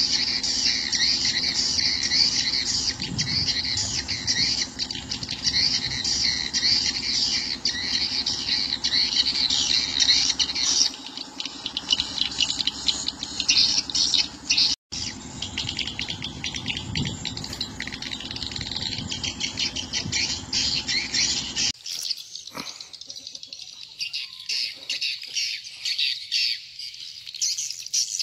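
Swiftlets twittering: a dense, continuous stream of rapid high-pitched chirps. There is a momentary dropout about halfway through, and a low hum underneath stops about two-thirds of the way in.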